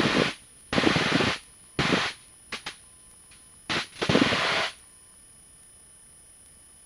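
Aircraft cabin noise (engine and wind) picked up by a headset microphone, coming through in five short bursts that switch on and off abruptly as the intercom's voice-activated squelch opens and shuts, then cutting out to a faint hum about five seconds in.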